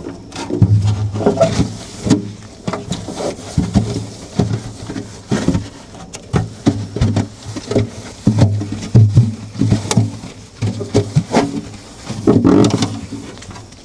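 Scrubbing or rubbing on a refrigerator's surface in quick, uneven strokes, the pad sticking and slipping so that many strokes give out a short low-pitched squeak, with knocks and clicks in between.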